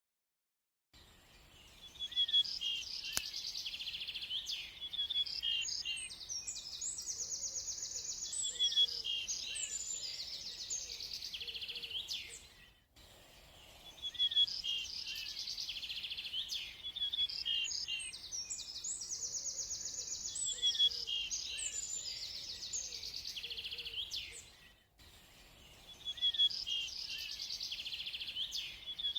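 Birdsong: many high chirps and trills, with a few lower calls underneath. It breaks off briefly and the same passage starts again about every twelve seconds.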